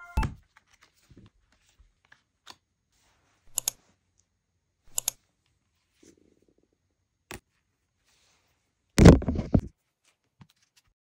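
Handling of a cardboard album and its photocards: a few scattered light taps and clicks of card against card, then a louder rustle and knock about nine seconds in as the album book is handled.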